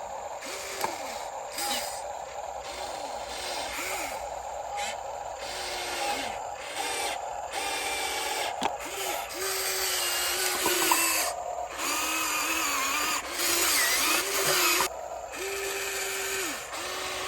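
Small electric motor of an RC excavator whining in short spurts, its pitch rising and dropping each time it starts and stops, with longer steady runs near the end. Bursts of broad rushing noise sound between the whines.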